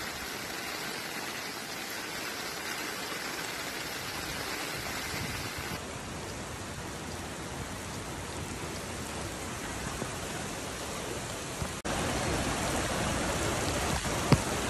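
Heavy rain pouring down on floodwaters, a steady hiss that changes abruptly twice, about six and twelve seconds in. A single sharp click comes near the end.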